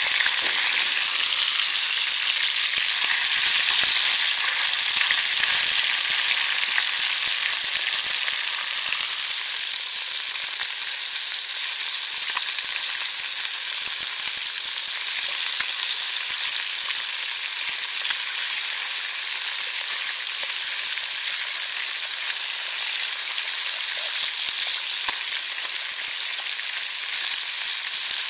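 Pike steaks and onion rings frying in a pan over a campfire: a steady sizzle, a little stronger in the first several seconds, with a few faint clicks as a utensil turns the pieces.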